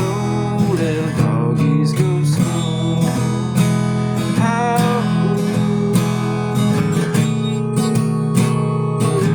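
Acoustic guitar strummed in a steady rhythm over held low notes, with a few gliding melody notes above: the instrumental close of a cowboy song.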